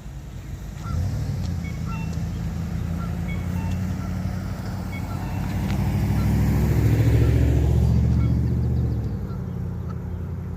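A motor vehicle's engine running close by, growing louder to a peak around seven seconds in, then easing off, with its pitch dropping near the end of the peak. Faint short high peeps repeat throughout.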